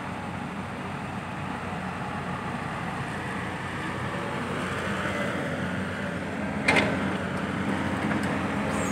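Heavy construction machine's diesel engine running steadily and growing a little louder, with a sharp clank about two-thirds of the way through and another near the end.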